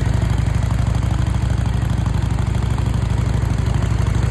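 Kawasaki Vulcan 800's V-twin engine idling steadily with an even low pulse, running again on its rebuilt carburetor.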